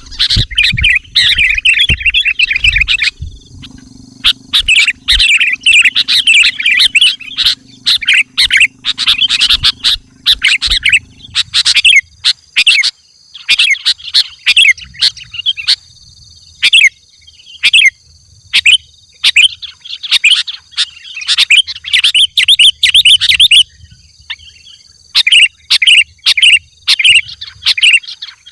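Sooty-headed bulbul (kutilang) singing vigorously: loud, rapid bursts of chattering, warbling phrases, one after another with short pauses between them. A faint, steady high buzz runs underneath.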